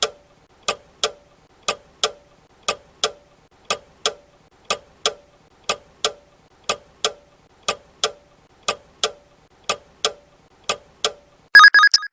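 Clock-style countdown timer sound effect ticking in a steady tick-tock, about two ticks a second, then a short, loud alarm ring near the end signalling that the answer time is up.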